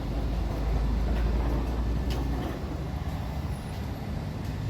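Low, steady motor-vehicle rumble, strongest in the first couple of seconds, with a few faint clicks.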